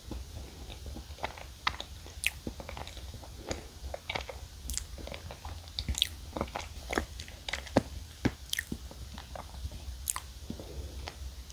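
Close-miked chewing of Choco Pie, the soft cake with its marshmallow filling: many short, irregular wet mouth clicks and smacks, several a second.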